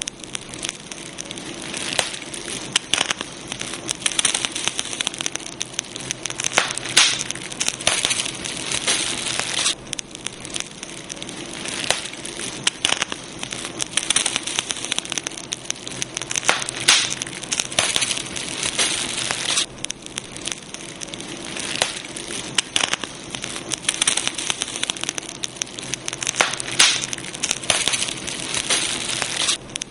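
Wood campfire burning, with many irregular crackles and sharp pops over a steady hiss.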